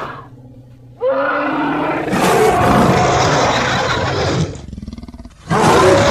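Creature roar sound effect made from layered elephant and monster roars. A low rumble opens it, then a long loud roar starts about a second in. A short pulsing growl follows, and a second roar starts near the end.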